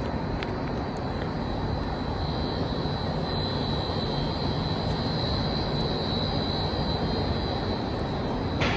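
Steady industrial machinery noise in a wire rope factory: a continuous rumble with a steady high whine on top and a low hum beneath.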